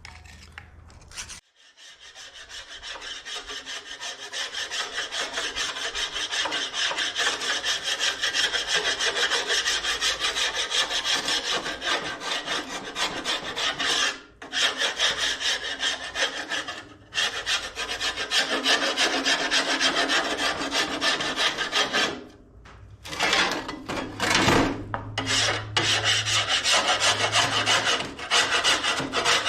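Wire wheel on an angle grinder scouring a cast-iron tractor front weight, a dense rasping scrub that is held on the metal and lifted off for a moment several times.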